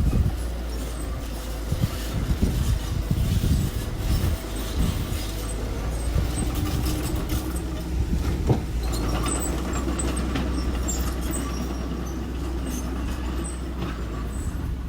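Engine of a small construction machine running steadily with a low rumble, with scattered metallic knocks and clanks from the machine at work.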